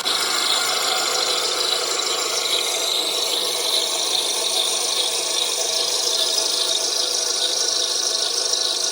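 Engine running with its serpentine belt squealing steadily, a high, even screech that does not change: the sign of a slipping belt.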